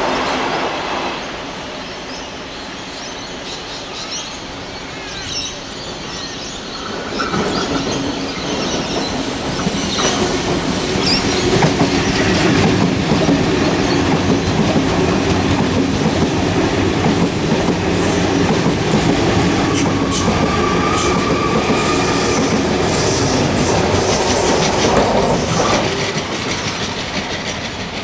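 Sydney Trains double-deck electric passenger train running past the platform: a rumble that builds about seven seconds in, with wheels clicking over rail joints and a thin squeal later on, easing off near the end.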